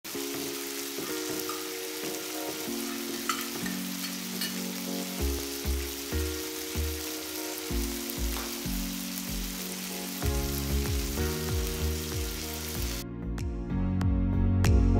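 Honey-glazed chicken fillets sizzling on a hot grill pan, a steady hiss under soft background music. The sizzling stops near the end and the music carries on, getting louder.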